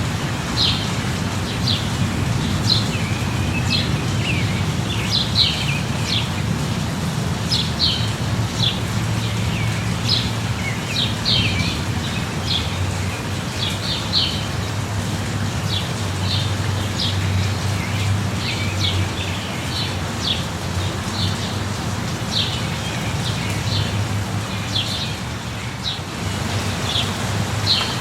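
Steady light rain with birds chirping over it, many short calls a second or so apart, and a low steady rumble underneath.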